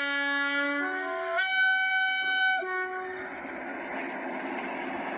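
Diesel locomotive air horn sounding a sequence of notes for about three seconds: a low note, then higher ones, dropping back before it stops. The running train carries on under and after it.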